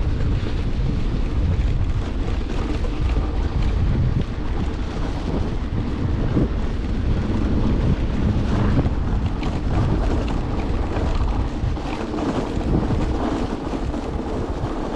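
Wind buffeting the microphone during a ride on an electric bike, over a steady low rumble of the moving vehicle.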